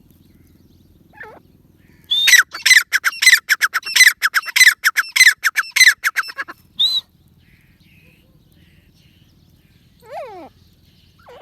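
Grey francolin calling: a fast run of loud, shrill, falling notes, about four or five a second, lasting some four seconds, then a single note after it. A fainter falling call comes shortly before the run and another near the end.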